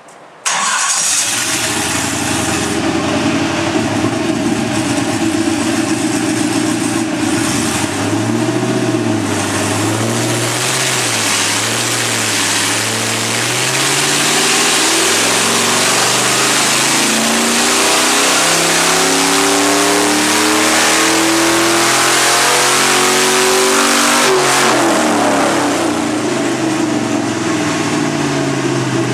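Stock 5.3-litre LM7 V8 (cast-iron block, aluminium heads) running on an engine dyno, the sound coming up suddenly about half a second in. During the dyno pull its pitch climbs steadily for about sixteen seconds as the rpm rises under load. About three-quarters of the way through, the revs drop back quickly and it settles to a lower, steady run.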